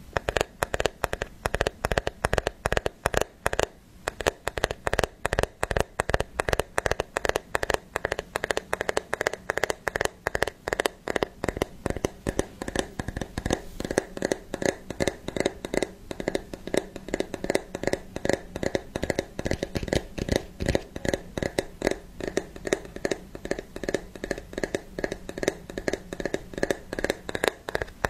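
Rapid, continuous clicking and tapping, about five sharp clicks a second without a pause, close to the microphone.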